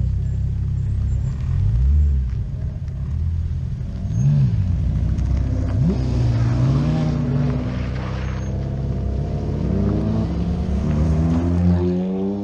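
Several car engines running at low speed, revving up and down several times over a steady low drone; the pitch climbs again near the end.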